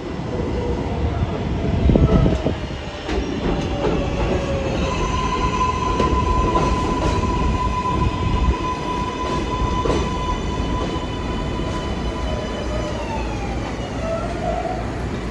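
R142-series New York subway train running on the rails, heard from onboard: rumble and clatter under the steady whine of its traction motors. About three-quarters of the way through, the whine steps down in pitch as the train slows.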